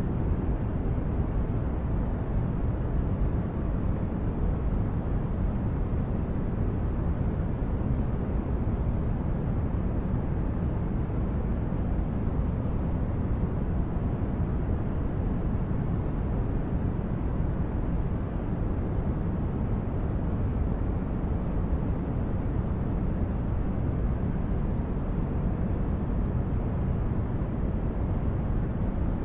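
Sci-fi spaceship-interior ambience: steady deep brown noise like a starship's engine hum, even and unchanging, with most of its weight in the low end.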